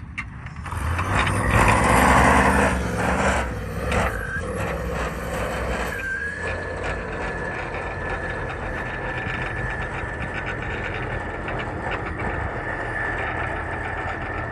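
Diesel truck engine revving hard about a second in, then running steadily under way with a thin, steady high whine from about six seconds on, as the truck builds speed for a dune jump.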